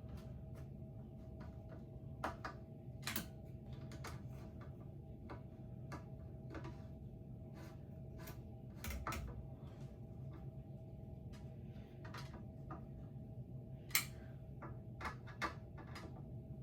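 Irregular light clicks and taps of ceiling fan parts and hardware being handled during assembly, a few sharper knocks among them, over a steady low hum.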